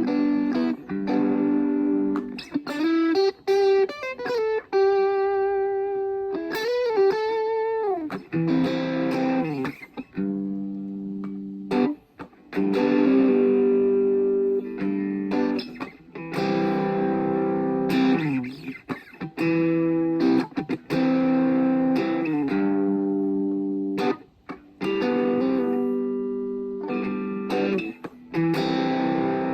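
Washburn Sonamaster electric guitar being played: single-note lines with string bends and vibrato for the first several seconds, then ringing chords with brief pauses between them.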